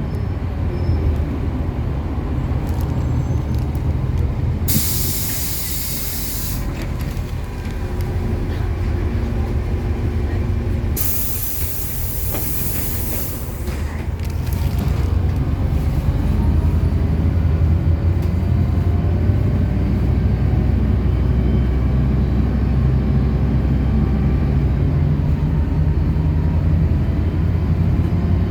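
City bus engine running at a stop, with two loud hisses of compressed air, about five and eleven seconds in, from the bus's pneumatic system. The engine then picks up and runs louder as the bus pulls away.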